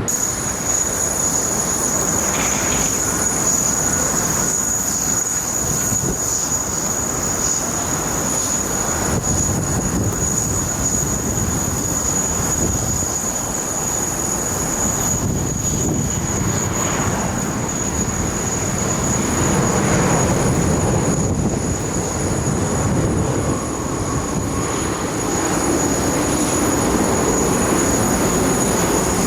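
United Airlines Boeing 777 landing: a continuous rumble of jet engines, swelling a little about twenty seconds in and again near the end, with a thin steady high-pitched tone throughout.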